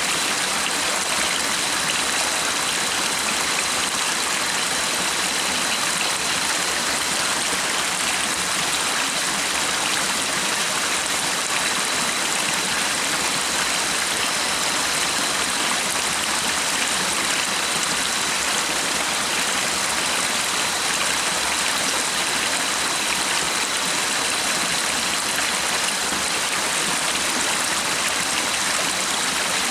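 Stream water rushing and splashing in an even, steady flow.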